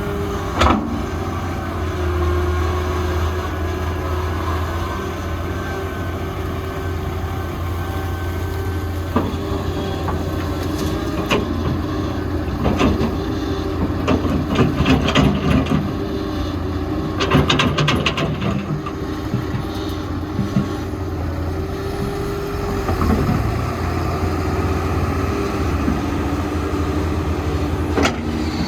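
Diesel engine of heavy earthmoving machinery running steadily, with a cluster of sharp knocks and rattles through the middle, as from an excavator at work on a dirt site.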